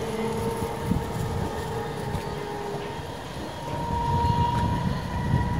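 Electric train running on the line: a steady rail rumble with a thin humming tone that grows louder about four seconds in.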